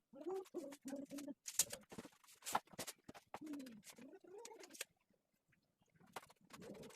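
A dove cooing: a quick run of short low coos, then two longer coos that rise and fall about halfway through. Scattered sharp clicks and taps sound between the calls.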